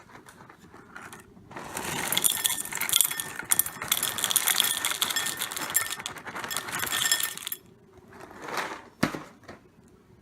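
Dry Cap'n Crunch cereal poured into a bowl: a dense rattling clatter of hard pieces that starts about a second and a half in and stops after about six seconds. A short softer sound and a single sharp click follow near the end.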